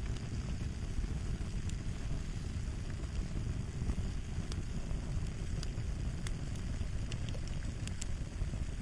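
Fire crackling: a steady low rumble of burning with irregular sharp pops and snaps, a few each second.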